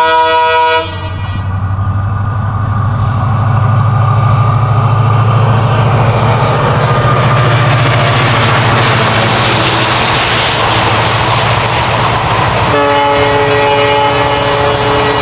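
Passing passenger train hauled by a diesel locomotive. A multi-tone horn blast cuts off about a second in. Then the locomotive's engine rumble and the rush of wheels on rails build as the coaches go by close. A horn sounds again with a steady chord near the end.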